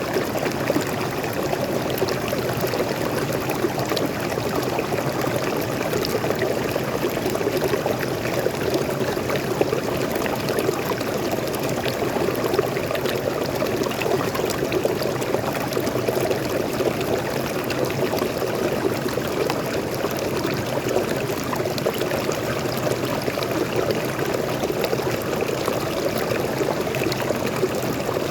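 Fresh water of a small forest waterfall splashing and flowing, a steady, unchanging rush of running water.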